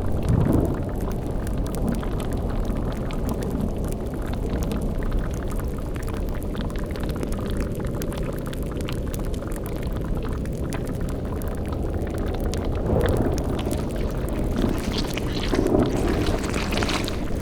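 Layered spooky ambience: a continuous low drone with a bubbling cauldron and crackling fire over it. A few louder low swells come about half a second in, around 13 s and around 16 s.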